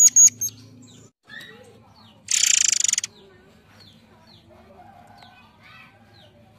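Murai air songbird singing: a few sharp, high piercing notes at the start, then a loud, fast harsh rattle lasting under a second about two seconds in, followed by faint scattered chirps.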